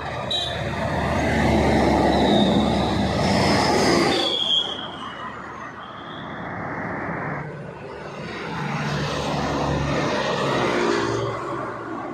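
Two heavy road vehicles drive past one after the other, engines and tyres swelling and fading. The first is loudest about two to four seconds in and has a brief high squeal near its end. The second passes about nine to eleven seconds in.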